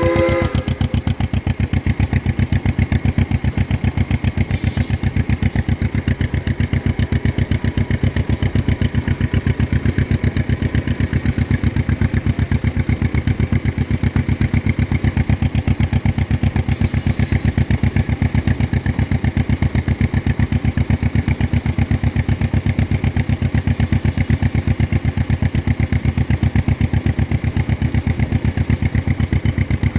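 John Deere 40's two-cylinder engine running steadily with an even, regular pulsing beat.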